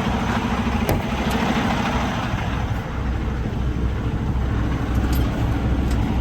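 Semi truck's diesel engine idling steadily, with a few light clicks.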